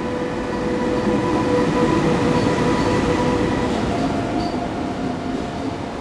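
Lok2000 electric locomotive and double-deck KTT coaches passing slowly: a steady rumble of the train with a whine from the locomotive, loudest about two seconds in as it goes by. About four seconds in, the whine changes to a different pitch as the coaches roll past.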